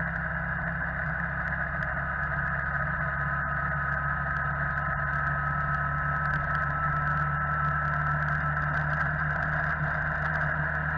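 Motorcycle engine running steadily at cruising speed, heard through an action camera fixed on the bike, with a steady drone of engine, wind and road noise.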